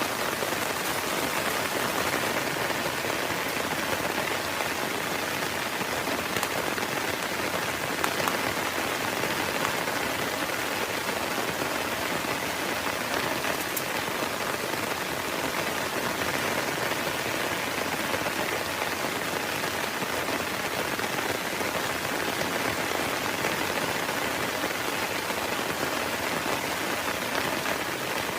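Heavy rain falling steadily as an even hiss, with a few sharp drop ticks, one about eight seconds in.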